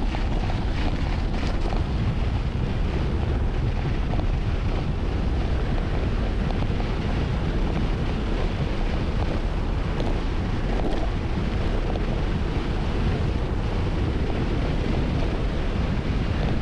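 Steady wind rushing over a camera microphone on a fast mountain bike descent.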